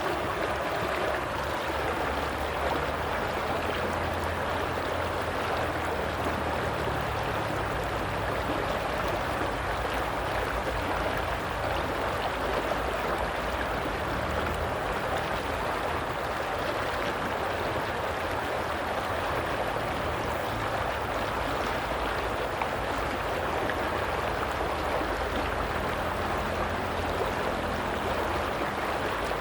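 Steady flowing water with a constant rush and a little gurgling, unbroken and even in level.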